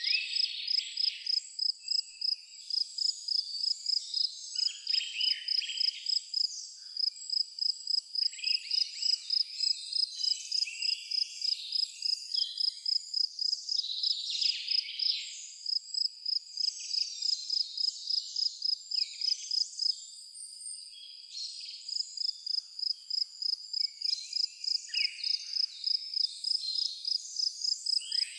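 A cricket chirping in a steady high-pitched pulse, about three chirps a second, pausing briefly about two-thirds of the way through. Over it, birds sing scattered short calls.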